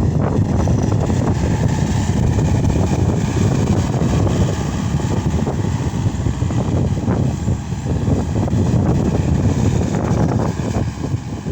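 Case SR200 skid steer's diesel engine running steadily under load, with a few faint knocks through it.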